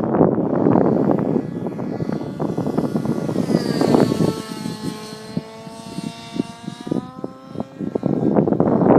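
Nitro engine and rotors of a T-REX 700 RC helicopter running at flight speed. Its steady, many-toned whine comes through clearly in the middle and is largely drowned by gusty wind on the microphone at the start and again near the end.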